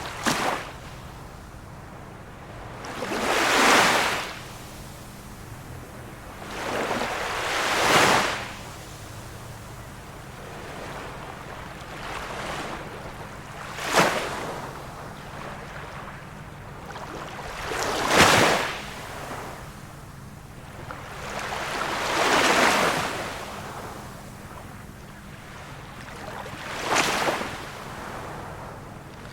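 Small waves of a calm sea breaking, a wash of noise about every four seconds, some swelling and fading smoothly and some landing with a short, sharp splash.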